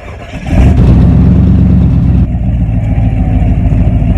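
Restored Chevrolet Nova's engine starting up: it catches about half a second in and runs loud at first, then drops to a steady, still loud idle about two seconds in.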